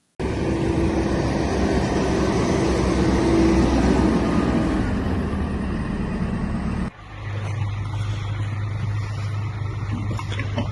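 Motor vehicle engines running amid road noise. About seven seconds in, the sound cuts abruptly to a steadier low engine hum.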